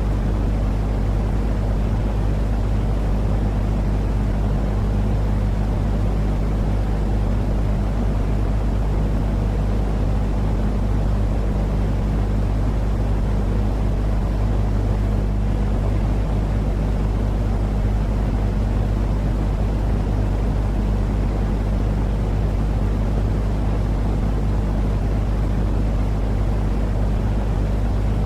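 Steady, unchanging low droning noise with a constant hum under it, a continuous white-noise track for soothing babies to sleep.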